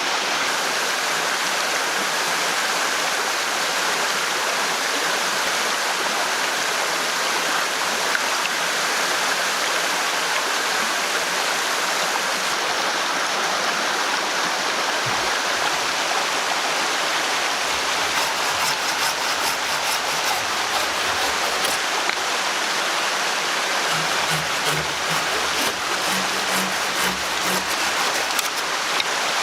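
Steady rushing noise of flowing water, like a forest stream, without a break.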